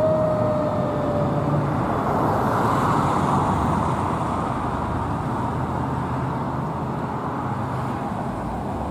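Fire engine driving past on an emergency response: a single tone slides slowly down in pitch over the first second and a half, then heavy engine and road noise gradually fades as it moves away.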